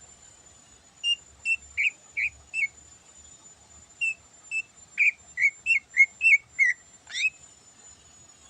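Greater green leafbird (cucak ijo) singing: clear, short whistled notes in two runs, five and then about nine, closing with one quick sweeping note.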